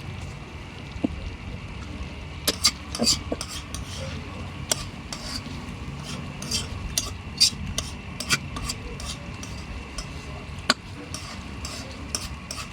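A cooking utensil stirring in a pan, clinking and knocking against it in irregular strokes, over a steady low hum.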